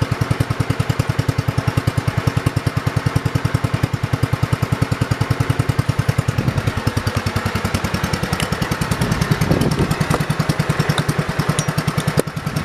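1968 John Deere 110 garden tractor's single-cylinder engine running steadily at idle with an even putting beat, the tone wavering briefly about nine seconds in.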